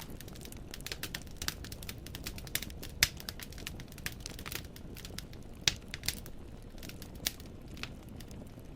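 Wood fire crackling in a fireplace: irregular sharp snaps and pops of burning firewood over a low steady rumble, with a few louder pops among them.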